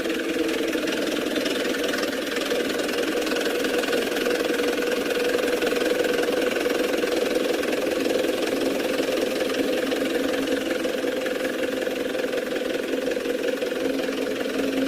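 Radio-controlled model construction trucks running: a continuous, steady motor hum with a fixed-pitch whine.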